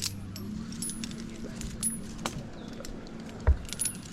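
Scattered light metallic clinks and knocks over a low steady hum, with one louder thud about three and a half seconds in.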